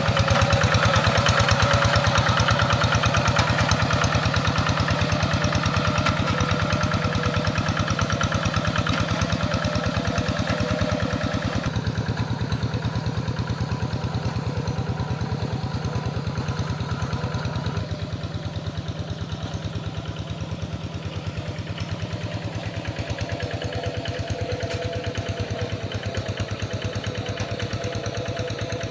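Tractor engine running steadily under working load, its firing pulses even throughout; the sound drops a little in level and brightness about twelve seconds in and again a few seconds later.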